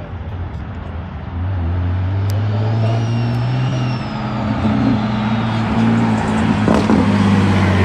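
Car engine running steadily, getting louder about a second and a half in, with a faint high whistle rising and falling briefly in the middle.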